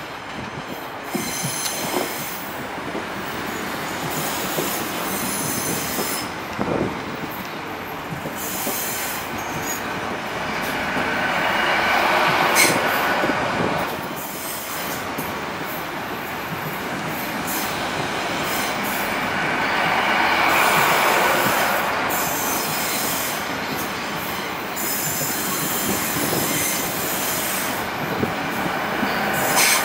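Great Western Railway Hitachi Intercity Express Train running slowly along the platform. Its wheels squeal on the rails, a high-pitched squeal that swells twice over the steady rumble of the coaches, with a few knocks from the track.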